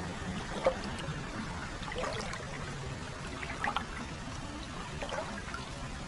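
Hot-spring water flowing continuously into a foot bath, pouring and trickling steadily, with small splashes and drips scattered through it and one sharper splash under a second in.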